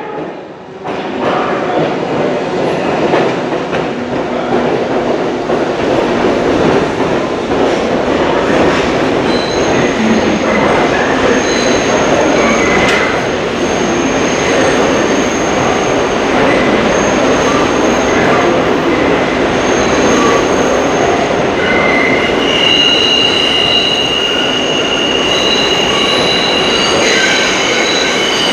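A train passing close by, its wheels running on the rails with a steady rumble. High-pitched wheel squeal comes and goes from about ten seconds in, strongest near the end.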